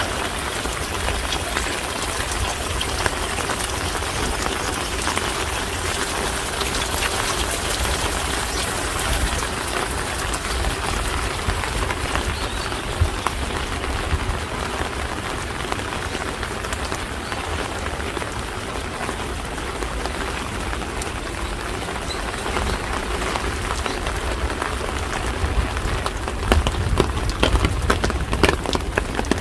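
Steady rain: an even hiss with the patter of many drops striking hard surfaces. Over the last few seconds, louder and sharper drop taps come more thickly.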